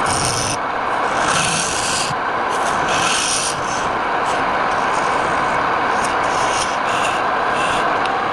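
Wood lathe running, with a tool rubbing against the spinning wood in hissing strokes about once a second for the first few seconds, then lighter touches.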